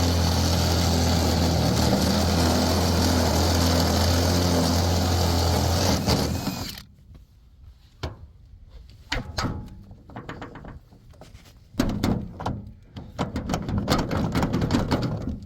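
Electric drill with a 1/2-inch bit running steadily for about six seconds while boring out a lock, then stopping. After it comes a string of irregular knocks and clunks.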